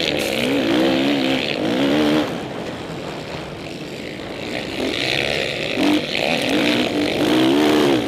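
Motocross dirt bike engines revving hard, pitch rising and falling with throttle and gear changes. Louder near the start and again in the second half, quieter in between as the bikes pull away.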